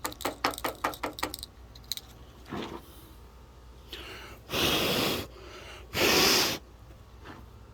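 Aerosol brake cleaner sprayed in two hard bursts of about half a second each, with a shorter faint spray before them. A quick run of clicks comes first.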